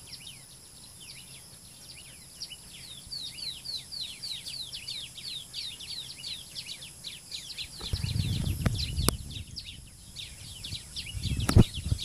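Birds chirping in the trees: a steady run of short, falling chirps, several a second. From about eight seconds in a low rumble joins them, and a sharp knock sounds near the end.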